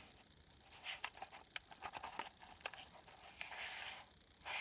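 Faint rustling and crinkling of a handmade junk journal's paper pages and tags as they are handled and turned, with scattered small clicks and a longer rustle about three and a half seconds in.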